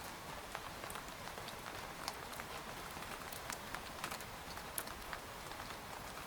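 Steady rain with scattered individual drops pattering on tent fabric, a few louder single drop hits standing out.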